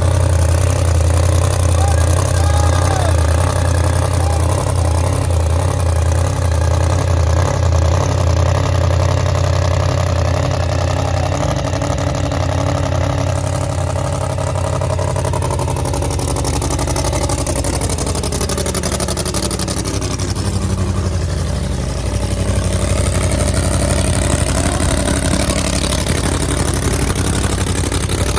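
Car engines running with a deep, steady exhaust rumble as cars leave a car meet. Around two-thirds of the way through, an engine note falls in pitch as a car passes by, and the engine noise then grows a little louder.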